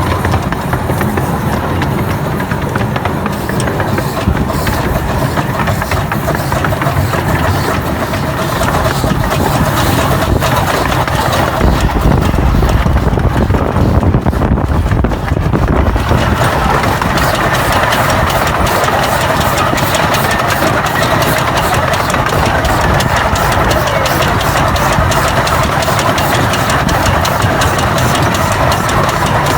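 A railway locomotive running steadily with a dense rhythmic beat; the sound grows fuller about halfway through.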